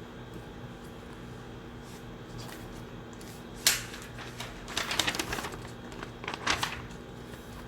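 Quiet study-room ambience: a steady low hum of the room's ventilation, broken by a sharp click a little over three and a half seconds in and then two short bursts of paper rustling, as pages or sheets are handled.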